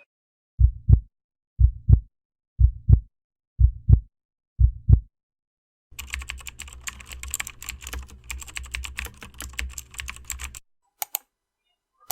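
Heartbeat sound effect: five low lub-dub double thumps, about one a second. Then rapid typing on a computer keyboard for a few seconds over a low hum, followed by a couple of single key clicks near the end.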